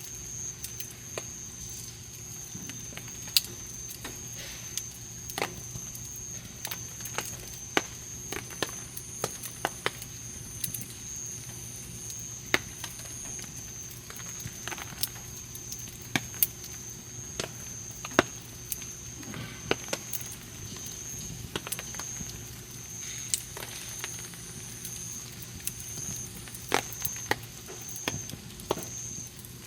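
Campfire burning, the wood crackling with irregular sharp pops, a few of them loud, over a faint steady high whine.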